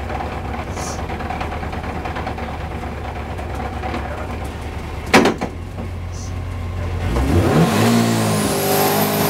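The 800 bhp Subaru Legacy race car's engine idling with a low rumble while the car sits at the line, one sharp bang about five seconds in. From about seven seconds the revs climb and are held high, ready for the launch.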